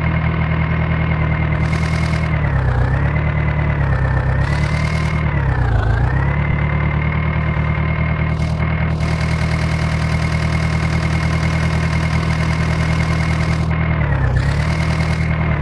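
JCB 3DX backhoe loader's diesel engine running at high revs. Its pitch sags several times and then recovers as the engine is loaded and released while it digs and lifts soil.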